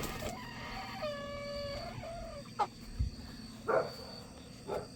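Chicken calling: one drawn-out, even-pitched call about a second in, then three short squawks spaced about a second apart.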